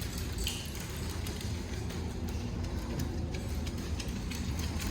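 Scattered light clicks of dogs' claws and footsteps on a hard floor, over a steady low rumble of the handheld camera being carried as they walk.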